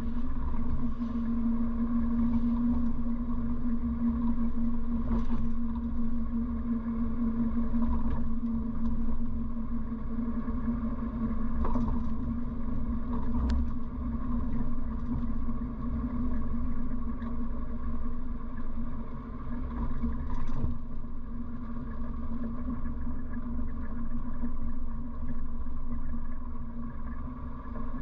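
1957 Morris Minor's A-series four-cylinder engine running steadily while driving, heard from inside the cabin as a low drone with road rumble. A single sharp click about halfway through.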